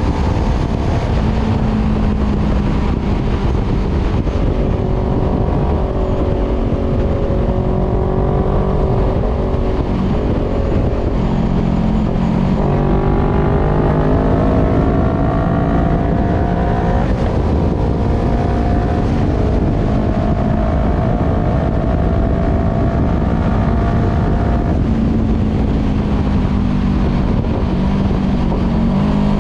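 Voge 500R motorcycle's parallel-twin engine through a full aftermarket exhaust with the dB killer removed, under way: the engine note climbs steadily under acceleration and steps to a new pitch at gear changes, about a dozen seconds in, again a few seconds later and near the end, with a stretch of steady running in between.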